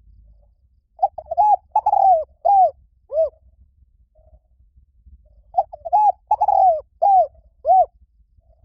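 Spotted dove cooing: two phrases of about six coos each, a couple of seconds apart, the last coo of each phrase dropping in pitch.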